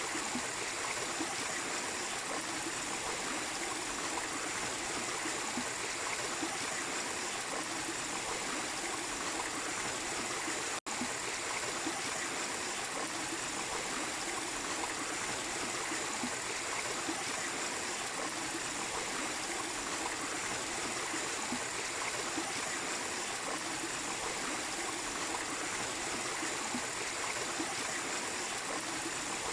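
Mini waterfall splashing into a stream: a steady, even rush of running water, broken once by a split-second dropout about a third of the way in.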